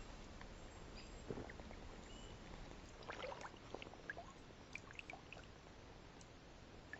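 Faint water trickling and dripping around a fishing kayak, with a few light clicks and ticks about halfway through.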